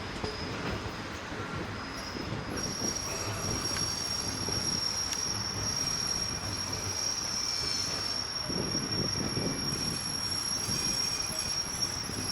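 Steel wheels of a train hauled by a South African Railways Class 24 steam locomotive squealing against the rails, a steady high-pitched squeal that sets in about two and a half seconds in, over the rumble of the rolling wagons.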